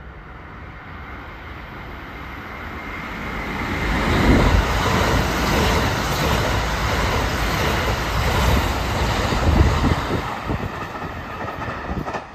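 Kintetsu 80000 series Hinotori limited express train passing through the station at speed. The rush of wheels on rail swells from about two seconds in, stays loud for several seconds as the cars go by, and fades near the end.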